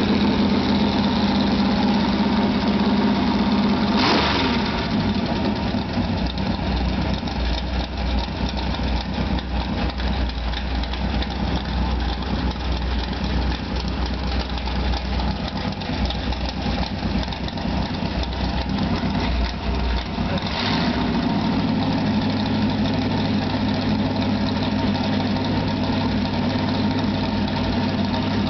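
Pontiac V8 in a hot rod, running at idle with open-sounding headers. About 4 seconds in the revs fall from a faster idle to a slower, deeper, lumpier idle, and about 20 seconds in they rise back to the faster idle.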